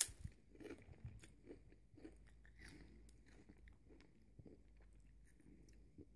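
Faint chewing of a popped potato crisp (Walkers Pops) just after a bite, heard as scattered, irregular small crunches and mouth clicks.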